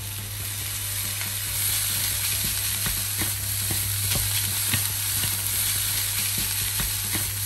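Rice and salted radish sizzling as they are stir-fried in a nonstick frying pan. A spatula and spoon stir and toss the rice, making scattered scraping clicks against the pan. The sizzle grows louder about a second and a half in.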